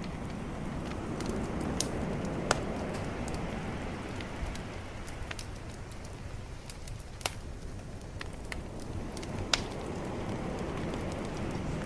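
Bonfire crackling, with scattered sharp pops (three loud ones) over the steady low rush of calm ocean waves that swells and eases slowly.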